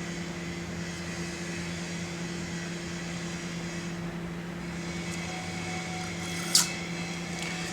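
A steady low machine hum, with one sharp click about six and a half seconds in.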